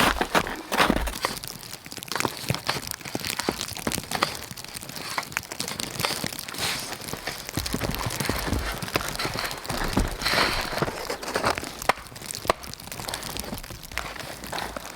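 Evergreen boughs being handled and laid down for a bed, their needles rustling and twigs crackling with many small snaps.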